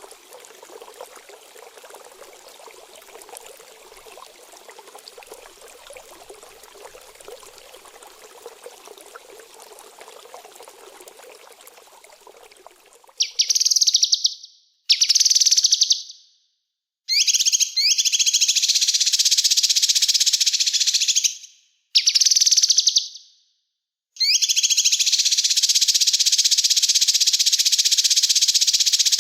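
Soft running water trickling steadily, then from about 13 seconds in, loud, rapid, high-pitched small-songbird trilling. The trilling comes in a few bursts broken by sudden silences and then runs on without a break near the end.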